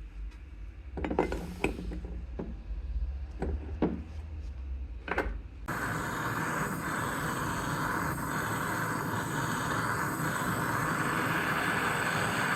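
Several sharp knocks of hard parts or tools being handled over a low rumble. About halfway through, a steady machine noise starts abruptly and carries on.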